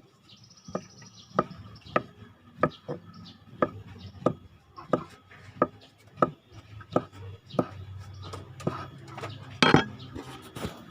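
Kitchen knife chopping food on a cutting board in steady strokes, about one and a half a second, with one harder stroke near the end.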